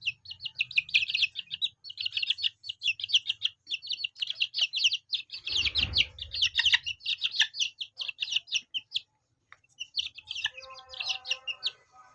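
Chicks peeping in rapid, high chirps, several a second, in runs with short pauses. A low rumble about six seconds in, and a lower sound with several held tones comes in near the end.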